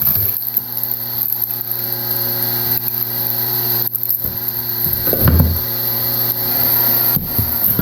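Electric hydraulic log splitter running, its motor and pump giving a steady hum as the ram pushes into a log. About five seconds in, and again near the end, the wood creaks and cracks under the pressure without yet splitting apart.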